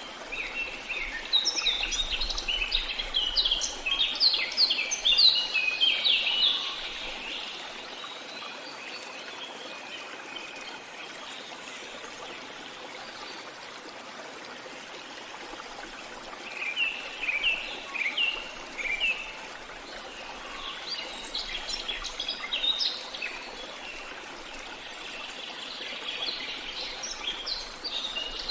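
Songbirds singing in bursts of quick, repeated chirps, with gaps of several seconds between bursts, over the steady rush of a flowing stream.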